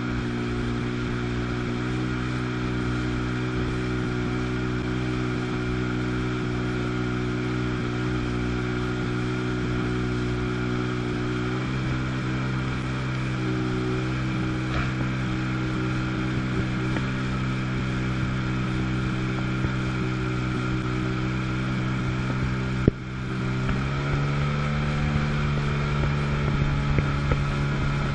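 1997 Sea-Doo GTS jet ski's two-stroke 720 engine running steadily at a constant speed. A sharp knock sounds near the end, after which the engine settles at a slightly higher pitch.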